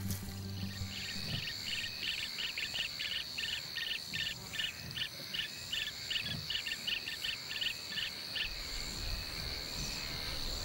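Insects droning at a steady high pitch, with a rapid run of chirps over it, about four a second, that stops about eight seconds in.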